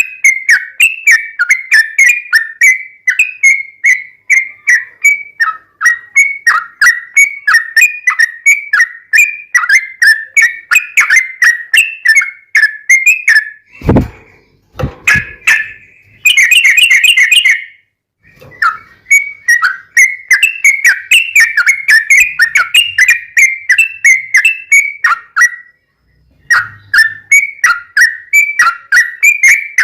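Yellow-vented bulbul (trucukan) singing a fast run of short whistled notes, broken by a few brief pauses. A little past halfway the notes run together into a dense rapid trill. Just before that, a couple of sharp knocks.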